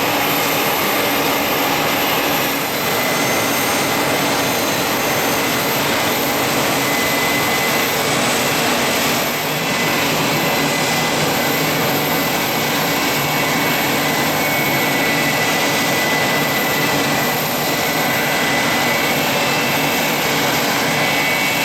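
Business jet's turbofan engines running steadily, a loud even rush with a thin high whine over it.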